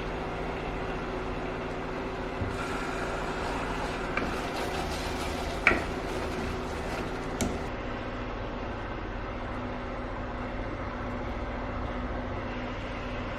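A steady mechanical hum, with a few light clicks and one sharper knock about halfway through; the hum's tone shifts a couple of seconds after the knock.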